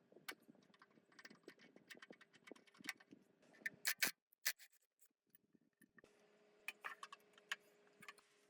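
Scattered light clicks, taps and scrapes of hand tools on metal parts being handled, with a few sharper clicks about four seconds in, over a faint steady hum.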